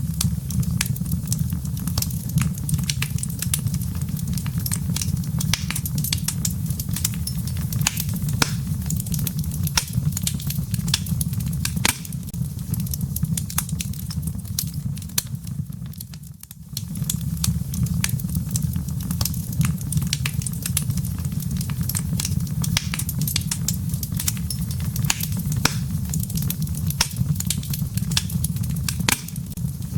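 Wood logs burning in a fireplace: a steady low rumble of the flames with frequent sharp crackles and pops. The sound dips briefly about 16 seconds in, then carries on as before.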